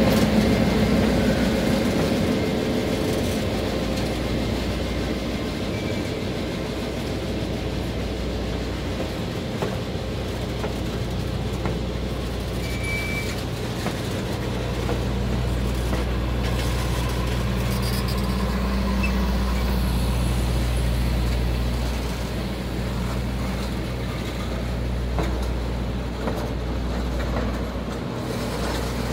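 Passenger train rolling past: the diesel locomotive's engine runs loudest at the start and falls away as it passes, followed by the passenger cars going by with a steady rumble of wheels on rails and a low hum.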